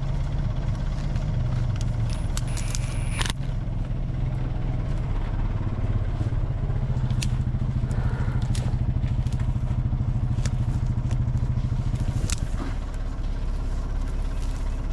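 Backhoe engine running steadily, working harder for several seconds midway and then easing back, with scattered clicks and light metallic clatter over it.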